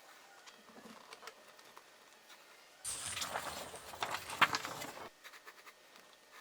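Pencil on paper: faint scattered strokes, then about three seconds in roughly two seconds of much louder, rapid scratching that starts and stops abruptly.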